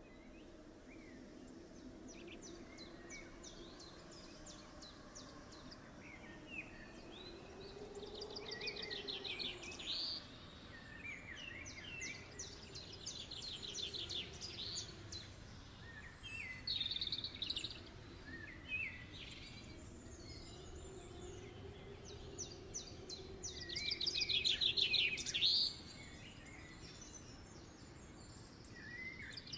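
Small birds singing, with rapid trilled phrases and short chirps repeating every few seconds; the loudest trill comes near the end. A faint low hum rises and falls underneath.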